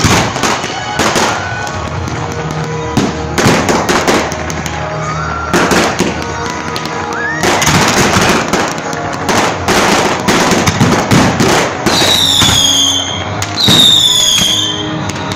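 Aerial fireworks bursting one after another: a dense run of sharp bangs and crackles, with two falling whistles near the end. Music plays underneath.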